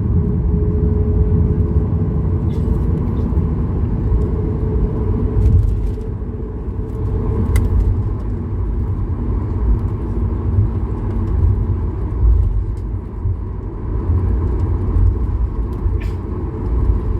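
Cabin noise of a Boeing 737-8200 MAX taking off: its CFM LEAP-1B engines at high thrust give a steady hum over a heavy, uneven rumble, with a few sharp rattles.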